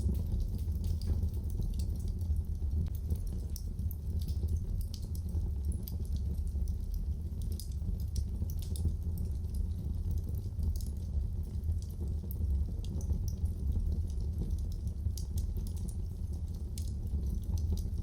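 Wood fire burning in a fireplace: a steady low rumble with frequent small, sharp crackles and pops scattered irregularly throughout.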